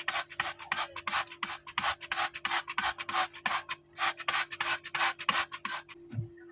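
A stiff brush scrubbing in quick, even back-and-forth strokes, about four a second, with a short pause a little past the middle.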